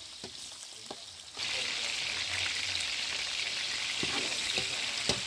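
Potato sticks frying in oil in a metal pan: a steady sizzle that comes in suddenly about a second and a half in. A metal spatula scrapes and taps against the pan several times.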